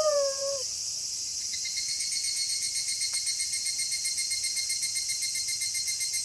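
A wolf's howl trails off, dropping in pitch, in the first half-second. After that, crickets chirp in a fast, even pulse over a high hiss of night insects.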